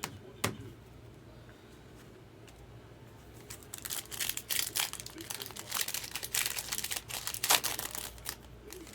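Foil wrapper of a trading-card pack crinkling as it is handled and opened, a dense crackling run from about three and a half seconds in to near the end, after a single click near the start.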